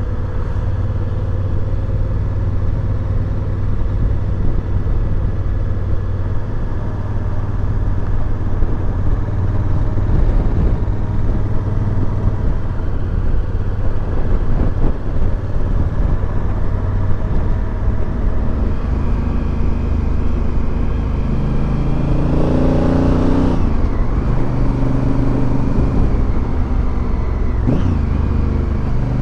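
Motorcycle engine running while riding, with steady road and wind noise. Near the end it accelerates hard, the engine pitch climbing and dropping twice at upshifts.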